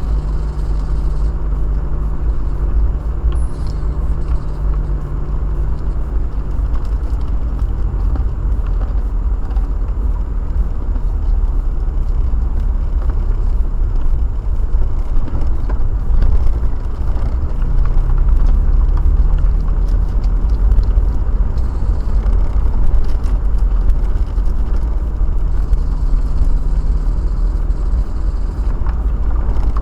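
Steady low road and engine rumble heard from inside a moving car, with the engine note rising and falling now and then. Rain gives a fine scattered ticking over it.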